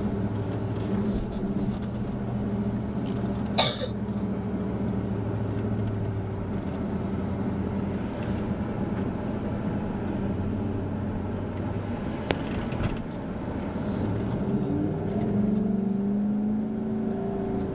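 Off-road vehicle's engine running under load while driving over sand dunes, heard from inside the cabin; its pitch climbs as it revs up about two-thirds of the way through. A single sharp crack about four seconds in is the loudest sound.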